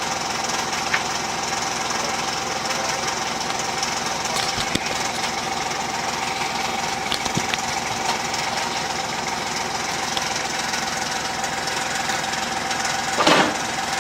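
Gator utility vehicle's engine running steadily, with a short clatter about a second before the end.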